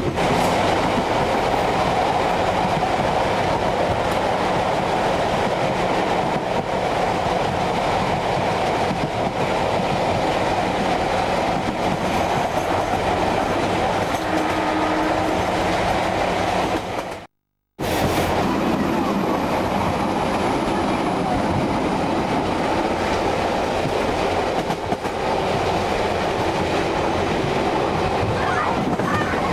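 Southerner passenger train running at speed: a steady rumble and clatter of carriage wheels on the rails, with a faint steady low hum beneath. The sound cuts out completely for about half a second a little past the middle, then resumes unchanged.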